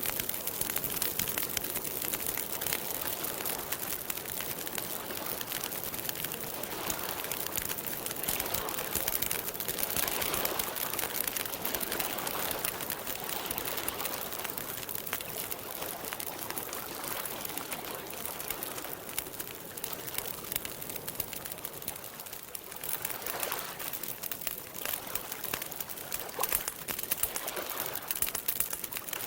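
Campfire crackling steadily with dense small snaps and pops, with softer swells of sound coming and going.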